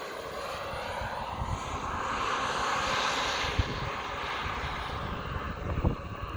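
Giant-scale radio-controlled Bell 429 helicopter in flight, its engine and rotor sound swelling about halfway through and then easing off as it moves.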